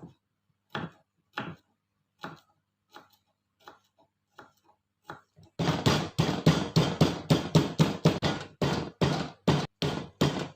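Knife chopping on a cutting board: single cuts spaced well apart, then from about halfway a fast, louder run of chopping, several strokes a second.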